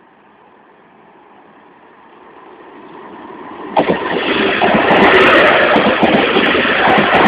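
SNCF train approaching and growing louder, then passing close from about four seconds in with a loud rushing noise and repeated clattering of its wheels on the rails.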